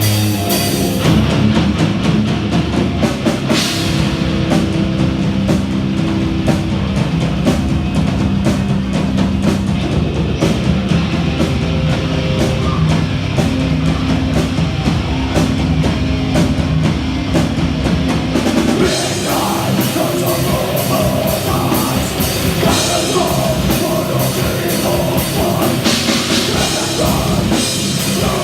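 Death metal band playing live: distorted electric guitars and bass over fast, dense drumming. The riff and texture change about two-thirds of the way through.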